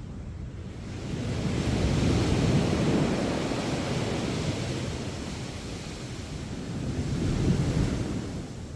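Sea waves breaking on a sandy beach: a wave crashes and washes up about a second in, then fades, and a second, smaller break swells and subsides near the end. Wind blows on the microphone.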